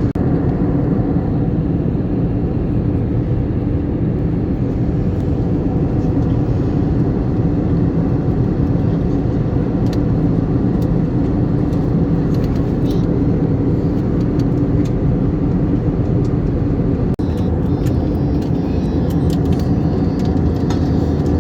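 Steady cabin drone of an Airbus A321neo airliner in flight, mostly engine and airflow noise with a low hum underneath.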